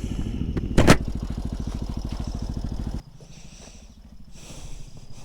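Small motorcycle engine idling with a fast, even pulse and a sharp click about a second in. The engine sound cuts off abruptly about three seconds in.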